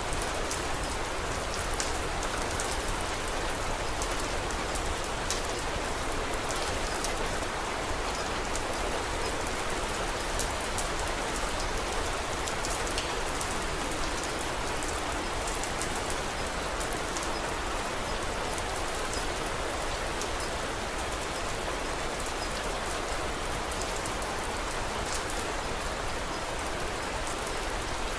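Steady rain falling, with many small sharp ticks of drops scattered through it.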